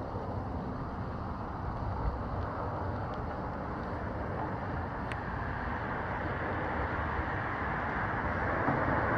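Steady low rumbling background noise with no distinct events, slowly growing louder near the end.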